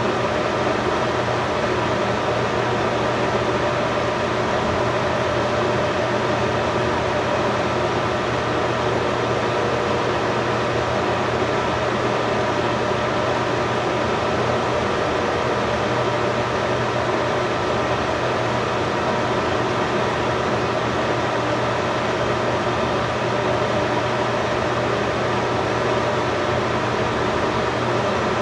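A steady mechanical hum with an even hiss, unchanging throughout, with a low hum and a few higher steady tones in it.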